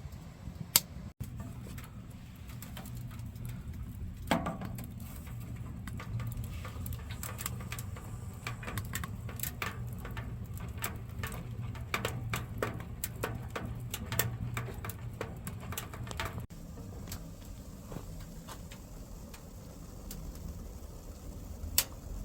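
Firewood burning in a Solotour wood stove, crackling and popping with many sharp irregular clicks, densest in the middle, over a steady low hum.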